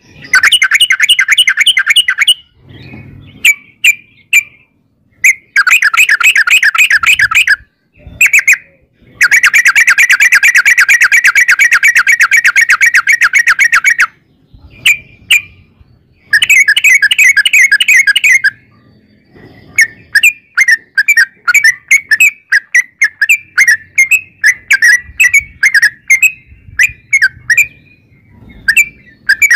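Yellow-vented bulbul (trucukan) singing long rapid chattering runs of bright bubbly notes, several runs of two to five seconds with short breaks between. In the last third it changes to quicker separate chirps, about three a second.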